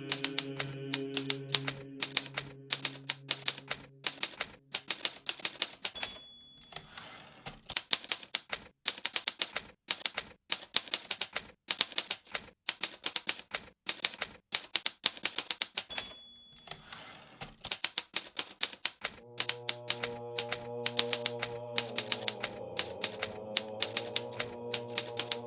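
Hermes Baby portable typewriter typed at a fast, steady pace, keys striking in rapid runs. About six and sixteen seconds in, a short ring of the end-of-line bell is followed by the carriage being returned before typing resumes. Soft sustained music chords sit under the typing at the start and again from about two-thirds through.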